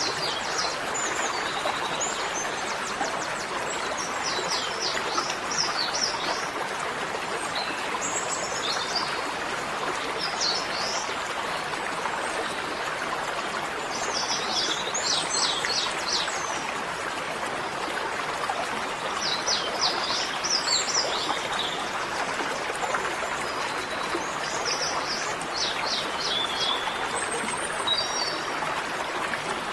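Steady rushing of running water, with a bird singing short, high, chirping phrases every few seconds over it.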